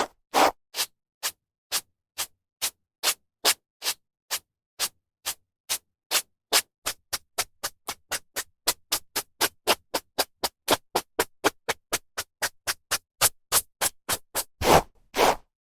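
Hairbrush strokes through hair: a steady run of short brushing swishes. They quicken from about two a second to three or four a second midway, with a couple of longer, fuller strokes near the end.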